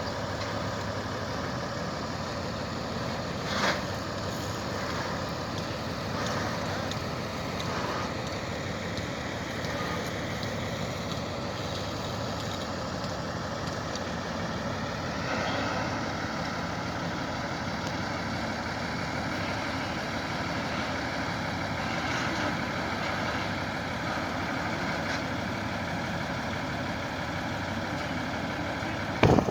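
An engine running steadily, with a short knock about four seconds in.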